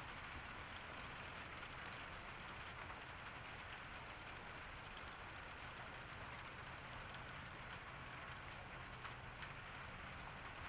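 Steady summer rain falling on a garden, a continuous patter with scattered individual drops ticking on surfaces.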